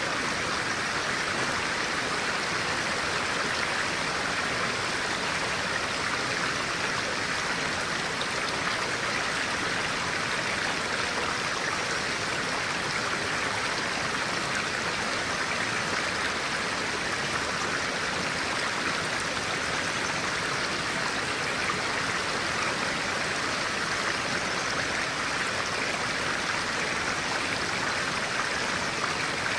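A clear-water stream rushing steadily over rocks, an even, unbroken noise.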